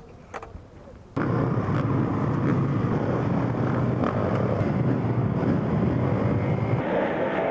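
Motocross motorcycle engines running hard, cutting in suddenly about a second in and staying loud and steady.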